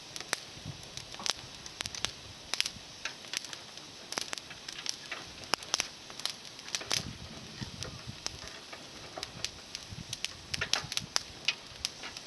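Small fire of climbing-rose twigs crackling: irregular sharp pops, several a second, over a steady hiss.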